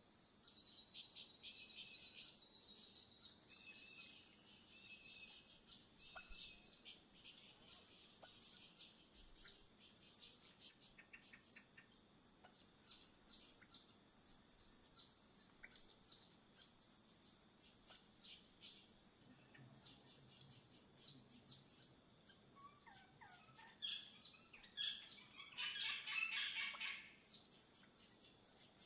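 Wild birds chirping, a rapid run of short high-pitched notes throughout, with a louder burst of lower calls a little over twenty seconds in.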